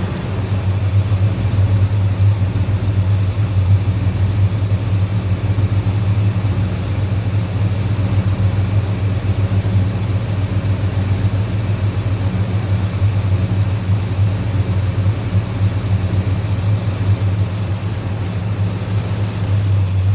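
2002 Ford F-150 engine idling steadily just after repair work, its computer relearning the idle after being unplugged. A regular, fast, high-pitched ticking runs over the low engine hum.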